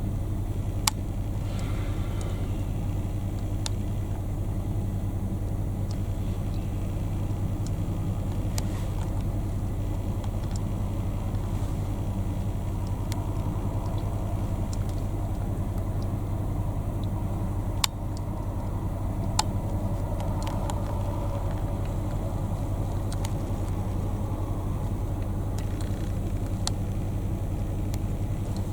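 Steady low engine hum, like an idling motor vehicle, with a few faint clicks.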